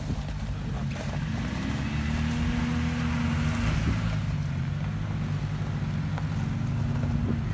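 An off-road 4x4's engine running, its pitch rising and easing off a few times, with a brief rushing noise over it a couple of seconds in.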